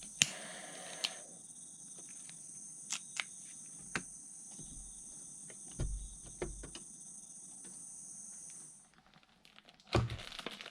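Insects trilling steadily and high-pitched, with scattered sharp clicks and knocks over it; the trilling stops about nine seconds in, and a short, louder rustling burst comes near the end.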